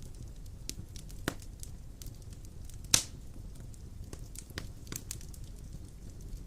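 Wood fire burning in a fireplace: a low steady rumble with scattered sharp crackles and one loud pop about three seconds in.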